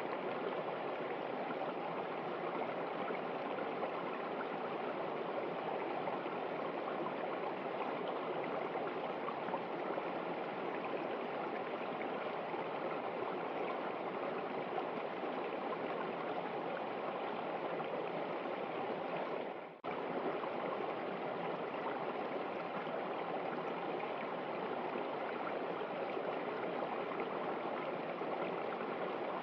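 Running river, a steady rushing and gurgling of flowing water. About two-thirds of the way through the sound drops out for a split second and comes straight back.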